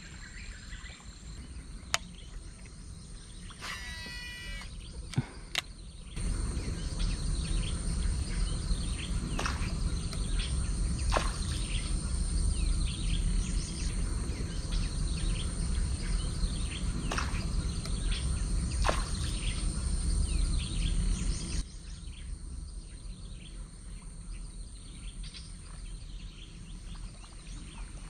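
Birds calling repeatedly with short falling chirps, with insects faintly behind them. A low rumble comes in about six seconds in and fades back down a few seconds before the end.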